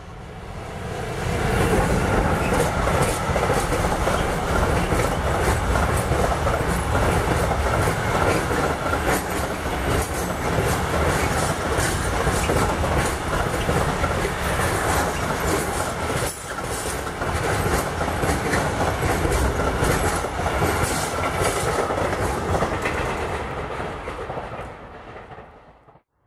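Freight train of container, tank-container and truck-trailer wagons passing close by at speed, its wheels clattering over the rail joints in a steady run of clicks above a heavy rumble. It swells up over the first couple of seconds, holds steady, and fades away near the end.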